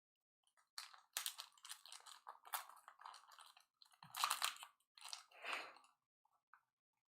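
Trading cards and their pack wrappers being handled: faint, irregular crinkling and rustling in short bursts, dying away about six seconds in.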